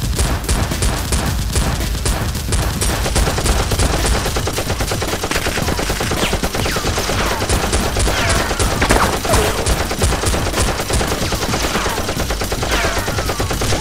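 Rapid automatic gunfire sound effects: dense strings of shots with no break. In the second half, several falling whines like bullet ricochets come through the firing.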